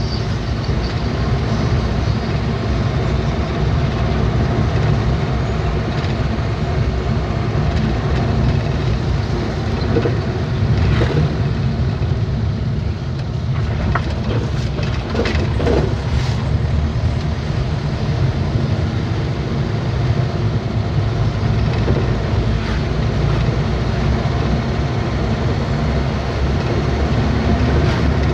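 Truck on the move: a steady low engine and road rumble, with a few sharp knocks and rattles about halfway through.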